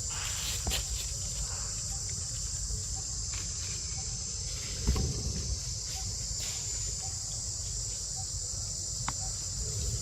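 Steady high-pitched insect chorus, with a few soft knocks and a louder one about five seconds in.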